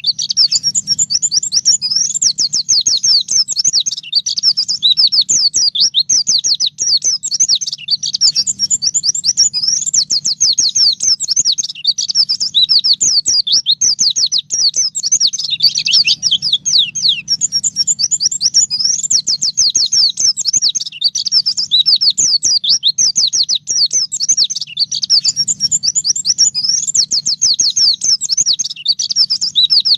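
White-eye (pleci) singing a continuous, fast stream of high, sliding chirps and short trills, in the rapid 'nembak' style.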